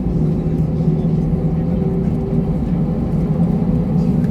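Airbus A320 cabin noise on the ground before take-off: a steady low rumble of the jet engines at low thrust, with a steady hum.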